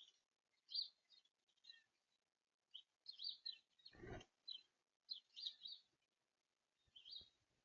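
Small birds chirping in quick, repeated high notes, on and off, with a short low thud about four seconds in.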